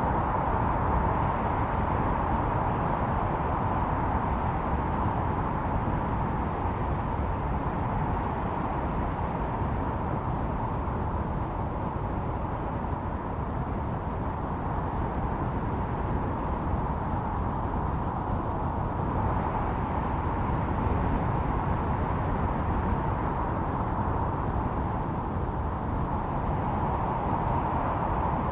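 Snowstorm wind blowing in a steady rush, swelling slightly a couple of times.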